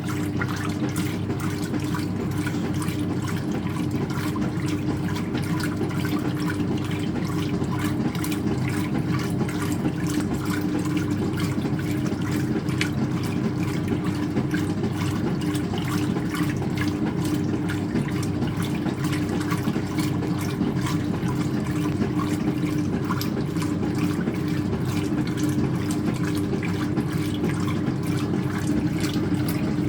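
Speed Queen top-loading washing machine in its rinse, with water running steadily into the tub over a constant hum.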